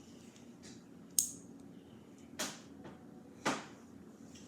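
Three brief clicks and knocks of small plastic LEGO pieces being handled, about a second apart.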